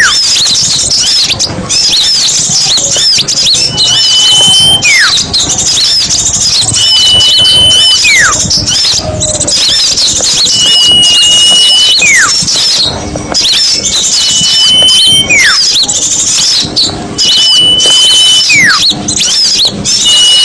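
Lure recording of many small songbirds chattering densely, used to draw small birds in for trapping. Over the chatter, one call repeats every three to four seconds: a held whistle followed by a quick falling slur.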